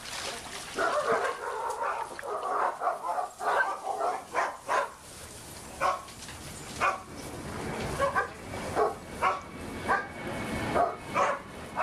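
Dogs barking: a quick flurry of barks over the first few seconds, then single sharp barks about once a second.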